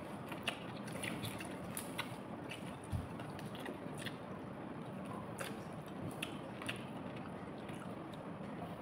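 Chewing and wet mouth sounds of someone eating chicken with her hands, with small, irregular clicks and smacks as the meat is pulled apart and chewed.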